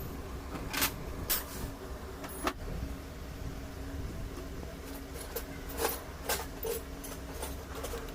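Sharp metallic clinks and knocks of tools and engine parts being handled during engine repair, about eight of them at irregular intervals over a steady low hum.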